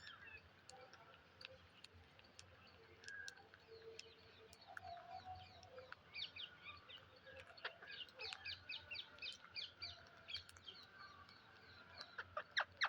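Faint parrot chirps and squawks: scattered short calls, a quick run of chirps in the middle, and a few louder calls near the end.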